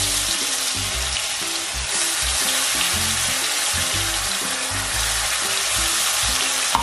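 Green chilli and garlic paste sizzling steadily in hot mustard oil in a kadhai, just after being dropped in. Background music plays underneath.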